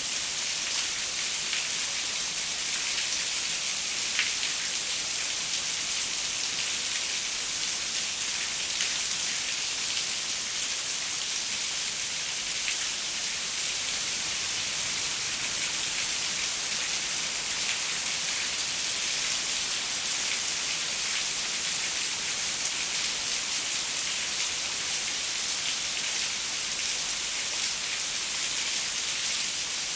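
Steady rain falling, a dense even hiss with many small drop ticks on a hard surface such as a window pane.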